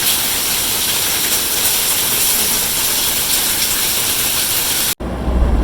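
Heavy rain falling, a loud steady hiss. It cuts off abruptly near the end, giving way to the low rumble of a car's engine heard from inside the cabin.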